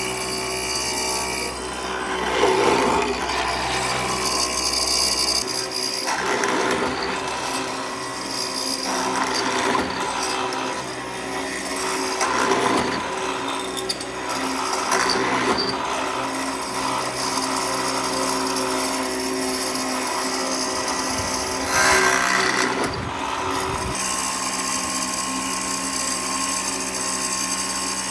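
Power tools working wood: a steady motor hum under repeated rasping, grinding passes, the sound changing abruptly several times.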